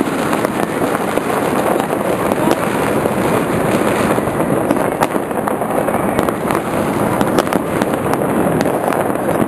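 Fireworks display going off in a dense, continuous barrage, with many sharp cracks overlapping over a steady din.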